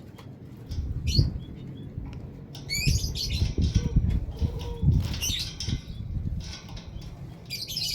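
Small cage birds, a canary and a white-headed munia, fluttering and hopping about the cage with an irregular rustle of wings, broken by several short high chirps.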